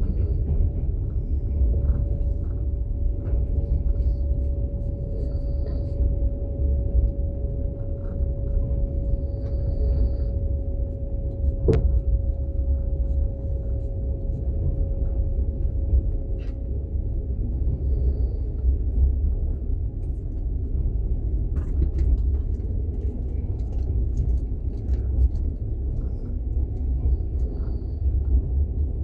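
Steady deep rumble of a passenger sleeping carriage running on the rails, heard from inside the car, with a faint steady hum that fades about two-thirds of the way through. A single sharp click comes about 12 s in, with a few fainter ticks scattered through.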